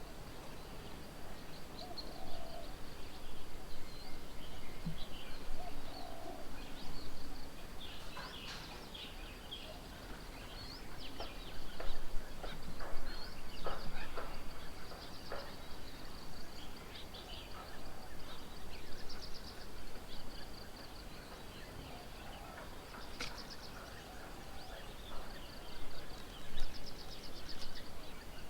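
Several wild birds chirping and calling, short scattered notes with a couple of rapid high trills, over a faint steady high hum.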